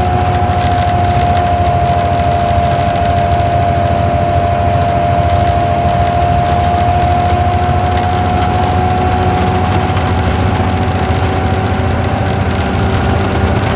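Isuzu Gala KL-LV781R2 coach's V engine and drivetrain running on the road, heard from inside the cabin: a continuous low rumble with a steady whine that sags slightly in the middle of the stretch and rises again.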